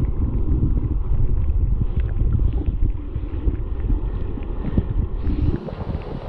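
Loud, gusty low rumble of wind buffeting the microphone, mixed with the rush of water at a waterfall.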